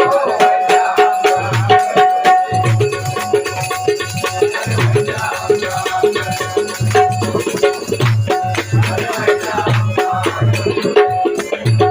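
Instrumental bhajan accompaniment with no singing: a harmonium holds a steady note over repeated low drum beats and a fast, continuous clicking of small hand cymbals.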